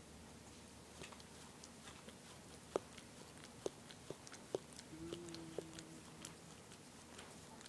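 Toy poodle licking, with irregular wet smacking clicks of the tongue and mouth. A short steady low tone comes in about five seconds in.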